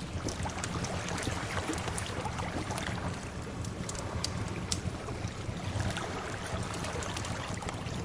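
Wood fire crackling, with scattered sharp pops, over a steady wash of sea waves.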